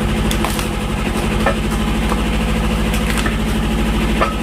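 Tractor engine running steadily, driving the hydraulics of a log splitter, with a few short sharp knocks or cracks over it.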